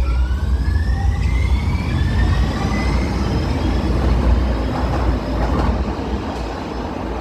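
One-car Muni Metro light rail train, a Siemens LRV4, pulling away: its motor whine rises in pitch over the first few seconds as it speeds up, over a low rumble that eases slightly toward the end.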